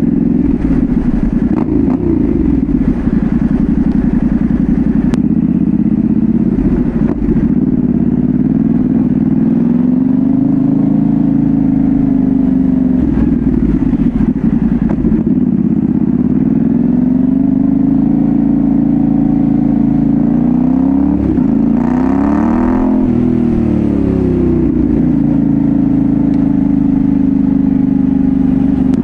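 Yamaha Ténéré 700's parallel-twin engine running through a Dominator GP1 full exhaust while riding. The engine note rises and settles with throttle and gear changes. About three-quarters of the way through there is a brief rev that climbs and drops back quickly.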